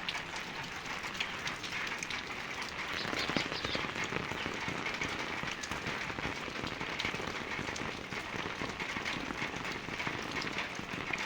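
Steady rain falling and pattering on surfaces, a dense, even hiss of many small drops.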